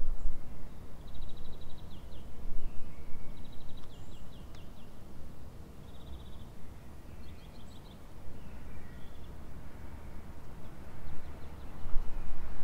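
Outdoor ambience: a steady low rumble with small birds chirping, several short rapid trills of high notes spread through.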